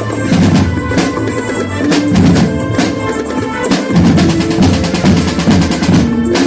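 Marching band playing: snare and bass drums beat a dense, fast rhythm with rolls, under a pitched melody line.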